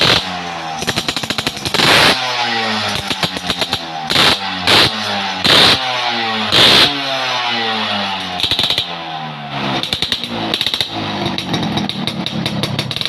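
Vehicle engine revved through a newly made exhaust muffler baffle: sharp throttle blips again and again, the pitch falling back toward idle after each one.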